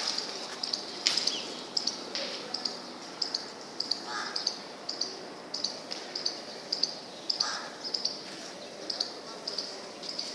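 Small birds chirping in short, high, repeated calls, several a second and irregular, over a steady outdoor background.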